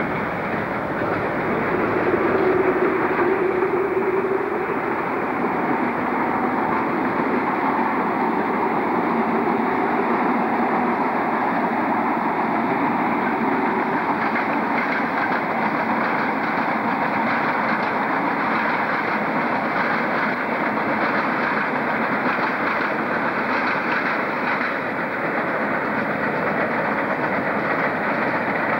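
Trains passing at steady speed: a freight train of vans, then InterCity coaches, with continuous wheel-on-rail running noise. A brief steady humming tone comes about two seconds in.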